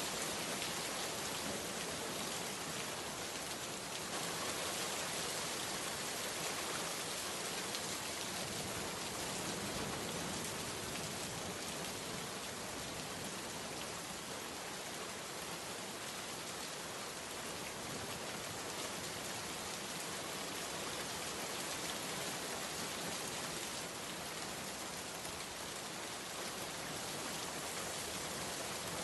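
Heavy rain falling steadily on surfaces, an even hiss of countless drops with no breaks.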